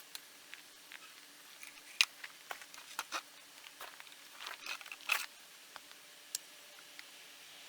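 Scattered light clicks and taps of small parts or tools being handled, irregular, the sharpest about two seconds in and around five seconds in.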